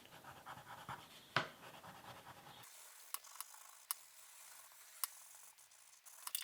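Faint scratching of a brown colouring pencil shading on paper, with a few light ticks and taps.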